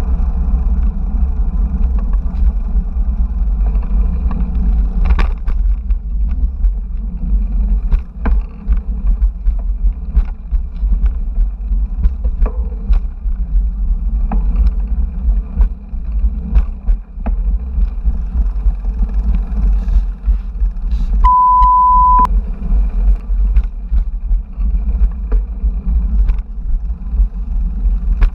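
Wind buffeting and road rumble on an action camera's microphone during a bicycle ride, with scattered clicks and rattles throughout. About two-thirds of the way through there is a single steady beep lasting about a second.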